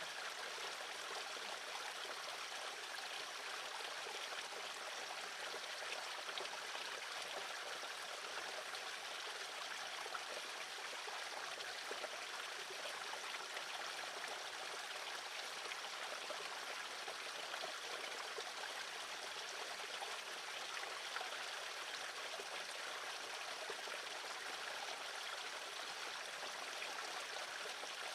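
Steady rushing noise like running water, even throughout, with no bird calls standing out.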